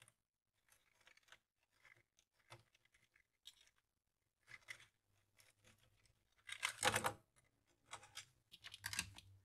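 Scattered small clicks and scrapes of hand tools working on a radio's circuit board, with louder scratchy scraping about seven seconds in and again near the end. A faint low hum runs under the second half.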